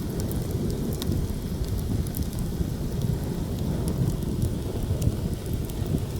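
Heavy wind blowing across the microphone in a steady low rumble, over a campfire crackling with scattered sharp pops.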